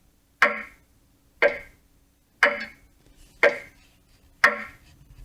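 Roffie N600 sound machine playing its clock track through its small speaker: a recorded clock ticking steadily about once a second, each tick with a short ring.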